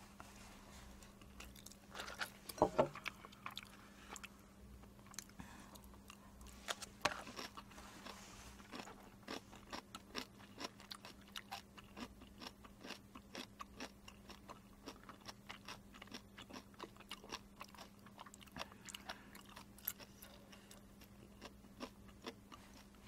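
Close-miked chewing of spicy Jjajang Buldak stir-fried instant noodles: a steady run of small wet mouth clicks and smacks, with a louder bite about two and a half seconds in. A faint steady hum runs underneath.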